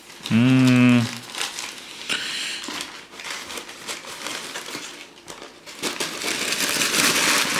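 Paper sandwich wrapper crinkling and rustling as a sub is unwrapped, getting louder and busier near the end. A short hummed voice sound comes about half a second in.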